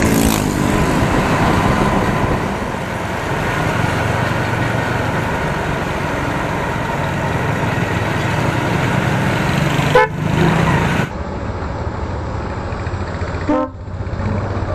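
Riding a Benelli TNT 25 single-cylinder motorcycle through slow city traffic: steady engine and road noise with a low rumble. Two short vehicle-horn toots sound about ten seconds in and again near the end.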